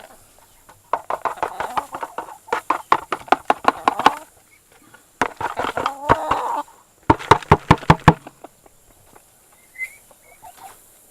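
Domestic poultry calling in three runs of rapid pulsed notes, several notes a second, the first run about three seconds long and the other two shorter.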